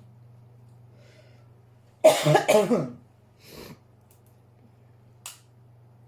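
A woman coughs hard twice in quick succession about two seconds in, then makes a fainter cough or breath about a second later, over a steady low hum.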